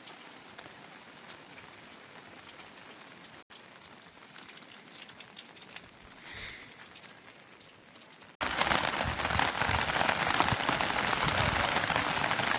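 Rain falling: a faint, even patter for about eight seconds, then an abrupt switch to loud, dense heavy rain hiss for the rest.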